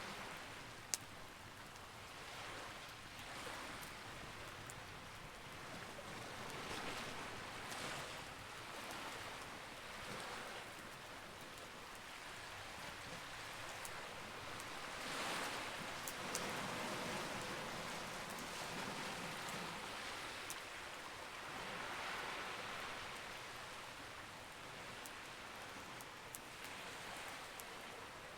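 Campfire crackling with a few sharp pops, over a washing noise that swells and fades every few seconds.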